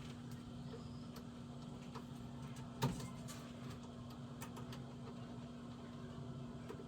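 Scattered light clicks and one louder knock about three seconds in, from tools and parts being handled at a furnace, over a steady low hum.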